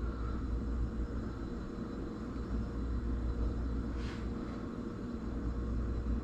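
Steady low background hum of room machinery, such as an air conditioner, with a faint brief rustle or scrape about four seconds in.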